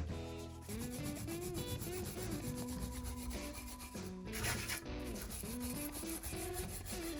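Sanding: continuous abrasive rubbing on a metal part of a water pump being restored, a little louder and harsher a little past the middle.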